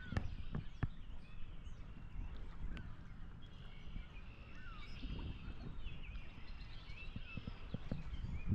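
Outdoor ambience with several short bird chirps and whistles scattered throughout, over a steady low rumble, with a few sharp knocks in the first second.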